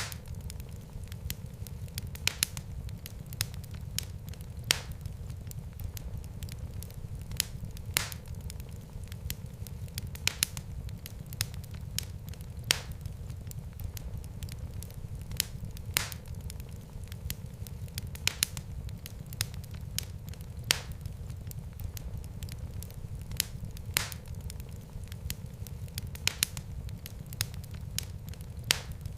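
Fire burning in a fireplace: a steady low rumble of flames with sharp crackles and pops at irregular intervals, about one or two a second.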